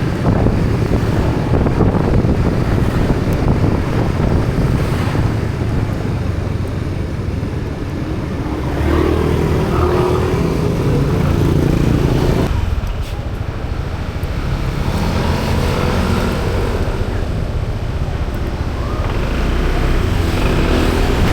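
Motorbike engine running on the road, with wind buffeting the microphone. The engine pitch shifts between about 9 and 12 seconds in, and the sound drops for a moment just past halfway.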